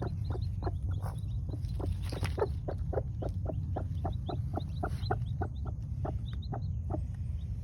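Free-range chickens clucking: many short clucks in quick succession, several a second, with faint high chirps among them.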